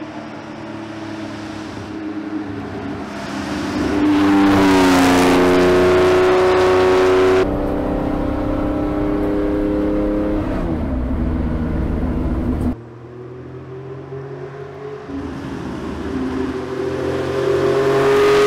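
Air-cooled flat-six engine of a carbureted Porsche 911 Carrera RSR race car accelerating hard, its pitch climbing, dropping at gear changes and climbing again. It is loudest a few seconds in and again near the end.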